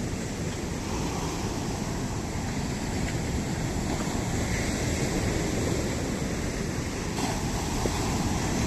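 Ocean surf: a steady, continuous rush of sea waves breaking and washing on the shore.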